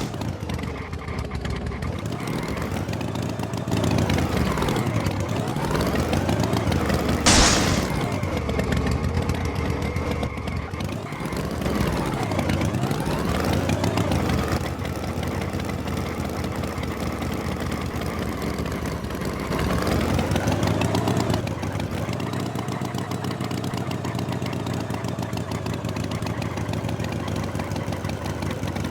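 Cartoon tractor engine running and revving up and down several times, with a short sharp sound about seven seconds in, then settling to a steady idle.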